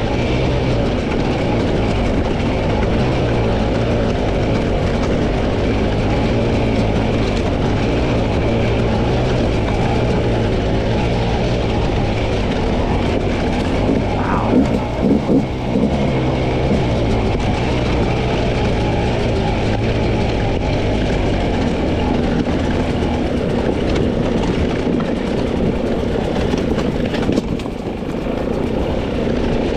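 300 cc two-stroke dirt bike engine running under load while ridden over rough terrain, mostly steady, with a short surge of revs about halfway through.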